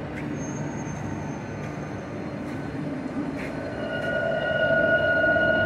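Electric commuter trains in a large station hall: a steady rumbling din, joined about three and a half seconds in by a louder steady electric whine.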